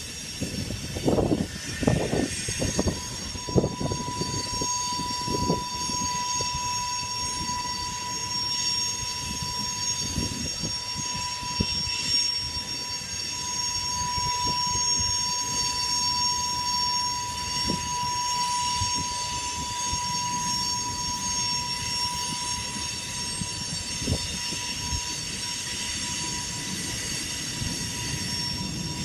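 Loaded grain train's freight cars rolling past, with a rumble and a run of loud clanks and knocks in the first few seconds. Wheel squeal starts about three seconds in and holds as one steady high-pitched tone over the passing cars.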